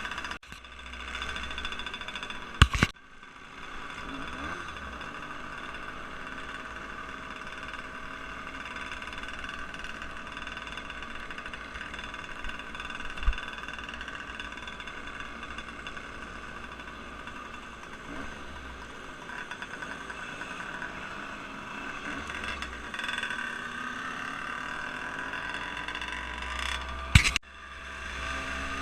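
An engine running steadily, with two sharp clicks, one a few seconds in and one near the end.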